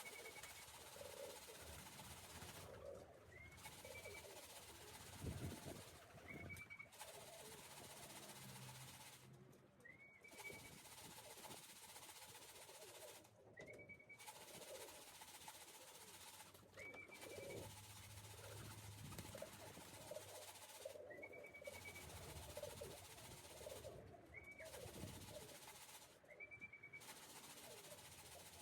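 Racing pigeons cooing faintly. A short high note that rises and then holds repeats about every three to four seconds.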